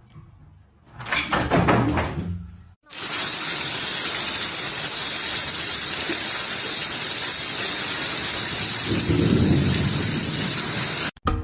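A short burst of knocks and rustling, then a steady rush of falling water that stops abruptly near the end, with a low rumble about nine seconds in.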